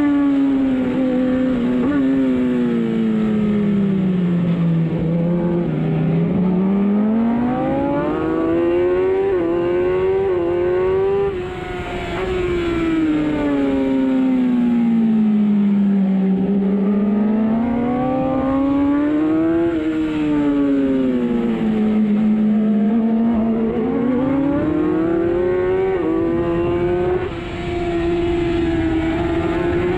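Racing superbike engine heard from on board at race pace. The engine note climbs in steps through quick upshifts, falls away under braking into corners, then rises again on the exits. The throttle shuts briefly twice, about 11 and 27 seconds in.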